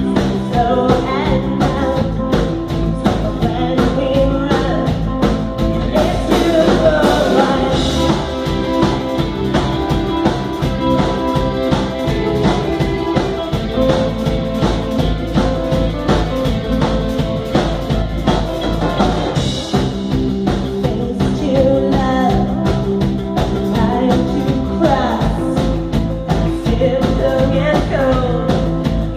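Live rock band playing a new-wave song with a steady beat: drums, bass and guitars, with a melodic lead line over them.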